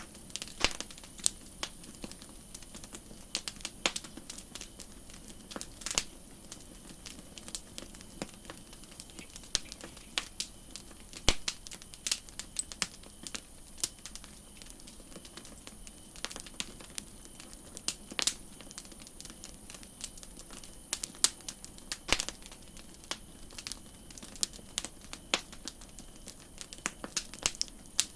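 Wood campfire crackling: irregular sharp pops and snaps, several a second, over a steady soft hiss.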